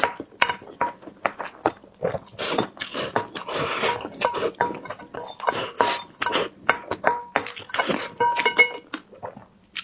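Close-miked eating sounds: wet chewing and mouth smacks in quick, irregular succession, with a faint tone that comes and goes.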